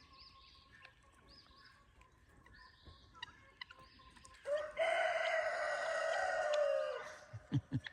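Rooster crowing once: a single long cock-a-doodle-doo that starts about halfway through and lasts a couple of seconds. Faint small-bird chirps come before it, and a few short low sounds follow near the end.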